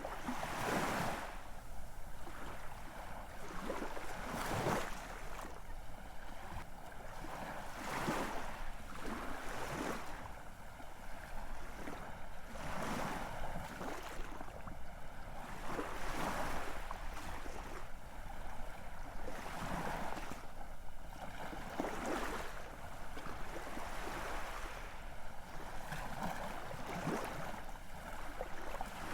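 Ocean surf, waves breaking and washing in with a fresh surge every few seconds.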